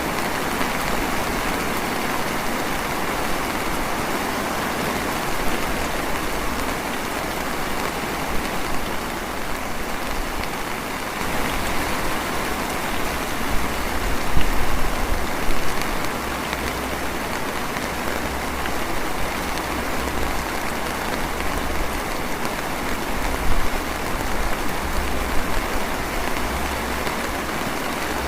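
Steady drizzle falling, the rain hitting nearby surfaces, with a few louder drops now and then and a low rumble that comes and goes.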